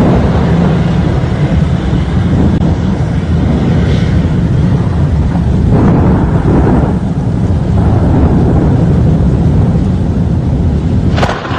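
Strong storm wind buffeting the microphone: a loud, steady low rumble with a gust swelling about halfway through.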